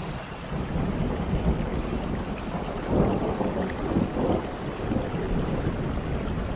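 Steady rain with a low rolling rumble of thunder, which comes in at the start and swells loudest about three to four seconds in.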